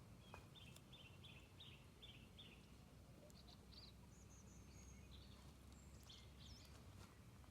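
Faint birdsong over a low steady rumble. A bird repeats a short call note about six times in the first two and a half seconds, then other higher chirps follow; there is one faint click near the start.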